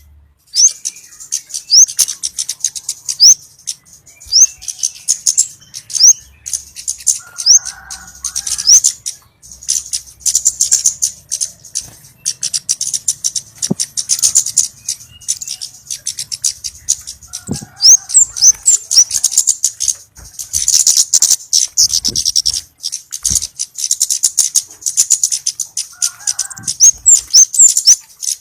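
Flowerpecker lure calls: dense bursts of sharp, high-pitched ticking chips mixed with short rising "tsip" notes, repeated over and over.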